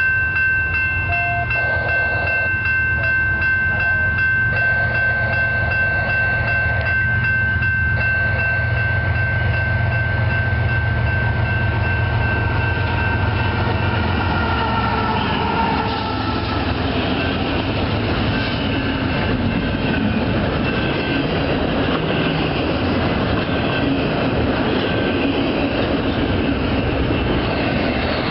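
Union Pacific diesel locomotives (a GE AC45CCTE leading an EMD SD70M) approach with their engines rumbling deep and the horn held in one long chord. About halfway through, the horn's pitch drops as the lead unit passes. After that, the doublestack container cars run by with a steady clatter of wheels on rail.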